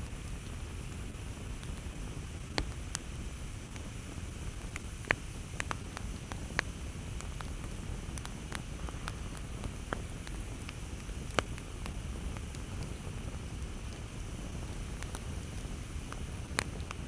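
Campfire crackling: irregular sharp pops and snaps of burning wood, a few louder than the rest, over a steady low rumble.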